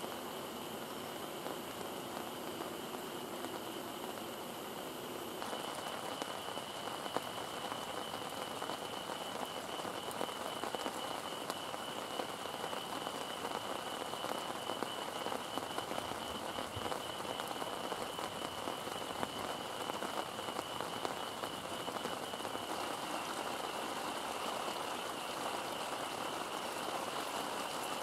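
Heavy rain falling steadily, louder and denser from about five seconds in, with a steady high-pitched trill running through it.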